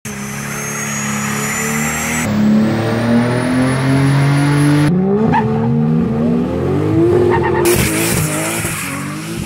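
A high-powered car engine held at high revs with its tyres squealing in burnouts, in several cut-together clips. The engine note climbs steadily for the first few seconds, then swoops down and back up.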